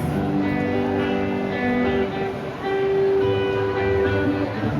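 Rock band playing live: a song's instrumental intro led by strummed guitars over bass, with held chords and notes.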